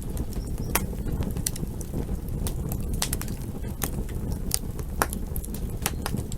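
Campfire burning: the wood crackles with many irregular sharp pops over a low, steady rumble.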